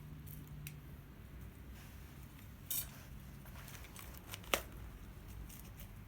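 Wood bonfire crackling: a few scattered sharp pops over a low steady rumble, the loudest pop about four and a half seconds in.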